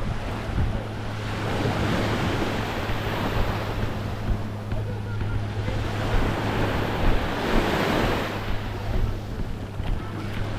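Waves washing onto a beach, the rush of water swelling and easing a couple of times, with wind buffeting the microphone as a low rumble.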